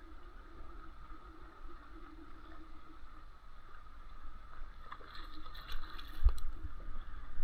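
Water lapping and gurgling against a kayak hull over a low wind rumble. From about five seconds in come splashing and clicks, with one sharp knock near the end, as a hooked trout is brought to the kayak.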